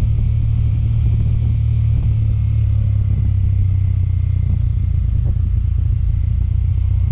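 Suzuki Thunder 250 motorcycle on the move, a loud, steady low rumble of engine and road.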